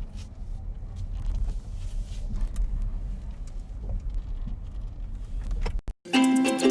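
Steady low rumble of a car, with a few faint ticks; it cuts off suddenly near the end and ukulele music begins.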